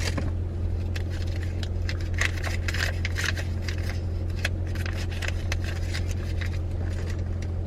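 Steady low hum of a car idling with its heater running, heard inside the cabin, with scattered clicks and rustles of small things being handled.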